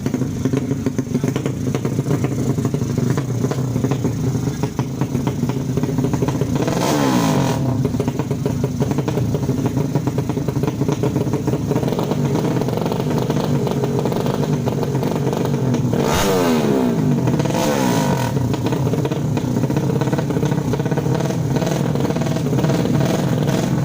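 Drag-racing motorcycles with 155 cc 'sleep engine' class engines running loud and steady. The engine pitch sweeps about seven seconds in and again around sixteen to eighteen seconds in, as bikes rev and run past.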